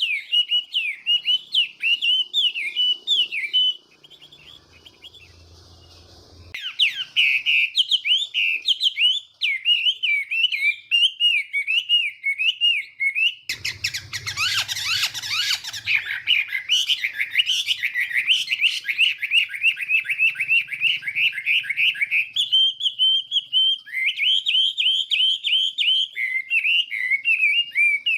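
Chinese hwamei singing a long, loud song of rapid, varied whistled phrases. The song breaks off for a few seconds about four seconds in, turns rougher and noisier for a couple of seconds near the middle, and holds one steady note briefly later on.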